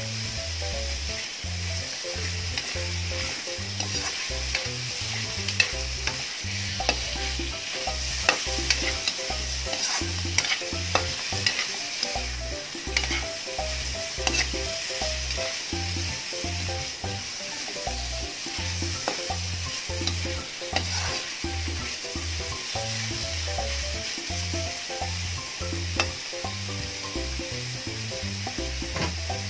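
Chicken pieces, garlic and onion sizzling in hot oil in a steel wok while a metal spatula stirs them, with frequent clicks and scrapes of the spatula against the pan.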